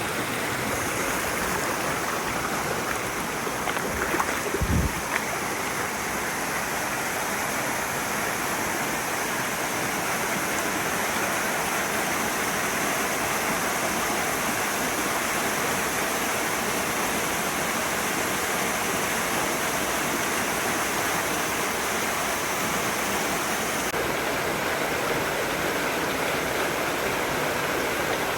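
Mountain stream water rushing over rocks in a steady, unbroken flow, with a few sharp knocks about four to five seconds in.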